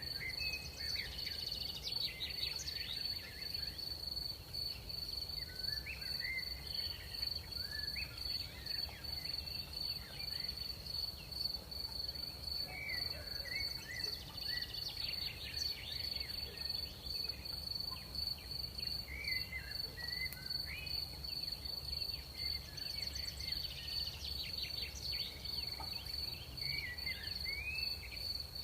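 Crickets trilling in one unbroken high-pitched drone, with short scattered chirps a little lower in pitch every few seconds, over a steady low rumble.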